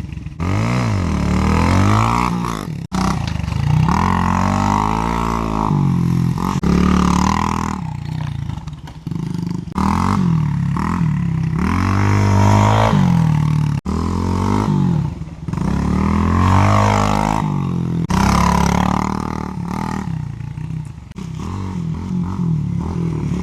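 Yamaha TT-R90 pit bike's small four-stroke single-cylinder engine revving up and backing off again and again as it is ridden round a tight track, its pitch rising and falling every couple of seconds. The sound breaks off sharply for an instant twice, about 3 s and 14 s in.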